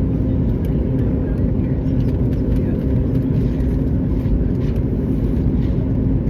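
Steady cabin rumble inside a Boeing 737-9 MAX: a loud, even roar of engines and airflow with a constant low hum.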